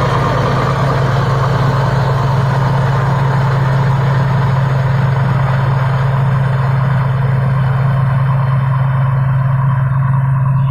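Engine of a Thai Seng Yont Jao Payu 4.0 rice combine harvester running steadily with a strong, constant low hum; the higher-pitched mechanical noise above it thins out about halfway through.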